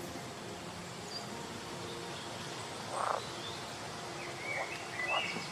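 Outdoor wildlife ambience: a steady background hiss with two short, harsh animal calls and several brief bird chirps near the end.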